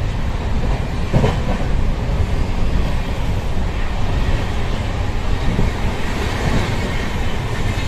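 Broad-gauge passenger train running, heard from inside a coach: the steady noise of its wheels on the track.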